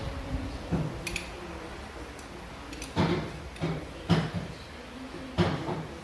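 Metal hand tools working at a very tight exhaust manifold bolt, making about five sharp clicks and knocks at irregular intervals.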